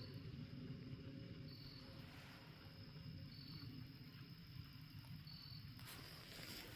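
Crickets chirping, a short high chirp about every two seconds, over a faint steady hiss like distant rain coming from the burnt, dead trees.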